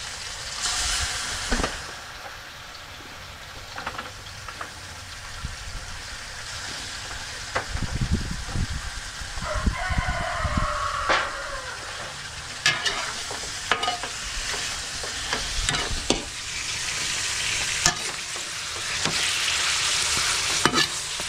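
Chicken pieces searing in hot oil with garlic and onion, sizzling steadily while a ladle stirs and clinks against the pan. The sizzle grows louder near the end.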